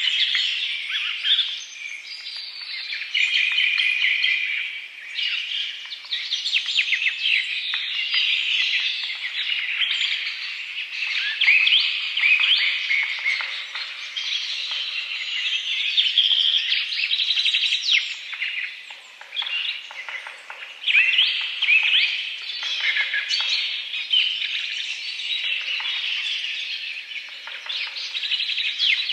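Several birds chirping and singing continuously, with quick overlapping calls and trills.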